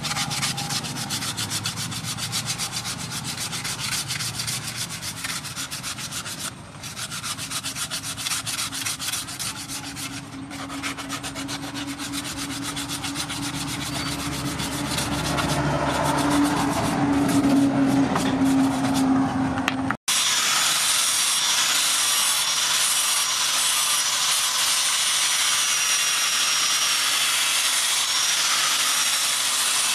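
Sandpaper rubbed by hand over a wooden knife handle in rapid back-and-forth strokes, with a low hum rising behind it. About twenty seconds in this gives way abruptly to a steady, louder electric angle grinder with a sanding disc grinding steel, with a high whine.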